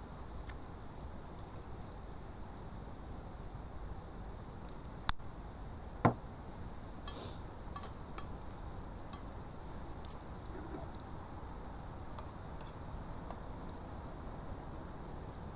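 Steady faint sizzling of food on a hot iron griddle, with a scattering of sharp clicks and clinks, about eight of them between five and ten seconds in.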